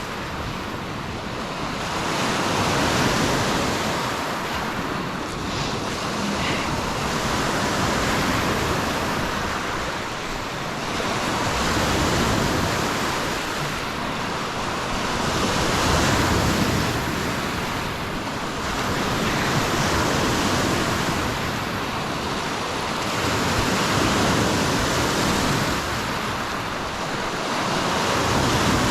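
Lake Superior waves breaking and washing on the shore, surging and ebbing every few seconds, with wind buffeting the microphone.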